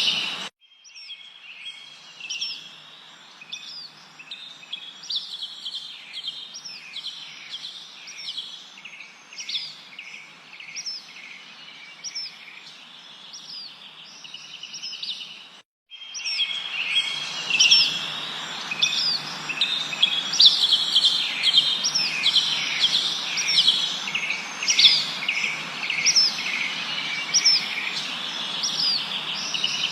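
A chorus of small birds chirping, with many quick high notes and short downward-sweeping calls overlapping, over a faint hiss. The sound cuts out briefly about half a second in and again about sixteen seconds in, and is louder after the second break.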